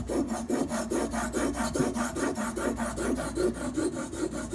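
Knife blade in a sharpening clamp being scrubbed back and forth on a sharpening stone, a steady rasping in quick, even strokes, about five a second.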